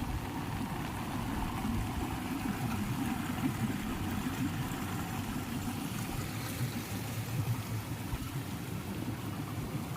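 Heavy rain falling steadily, an even wash of noise with a low rumble.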